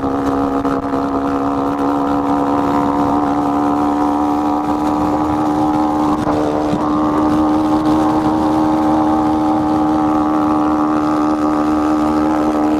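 1986 Honda Z50R minibike's small single-cylinder four-stroke engine running under throttle at a steady pitch while riding, with wind rushing over the helmet microphone.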